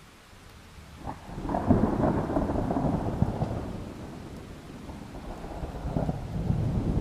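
Thunder rolling over rain. A rumble breaks about a second in, swells to its loudest and slowly fades, then a second, weaker roll comes near the end.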